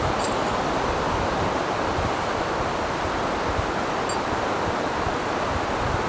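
Steady rushing noise of strong wind and high surf, with a couple of faint high ticks.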